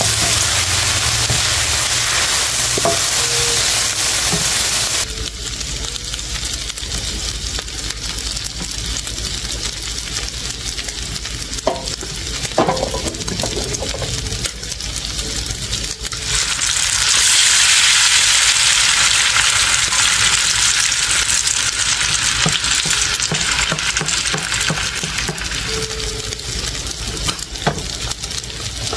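Diced ham, ground meat and mixed vegetables sizzling in a hot nonstick frying pan, with a few sharp knocks near the middle. The sizzle gets louder and brighter past the halfway mark, as a raw egg fries in a space cleared in the pan.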